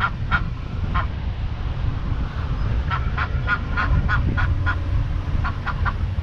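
A duck quacking in short, nasal calls: a few spaced calls, then a quick run of about four a second starting about halfway through, with more near the end.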